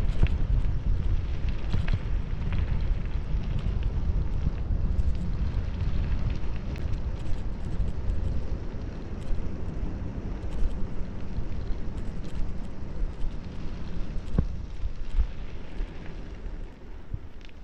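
Wind buffeting the microphone during a bicycle descent, a steady low rumble, with scattered clicks and rattles from the bike rolling over the road.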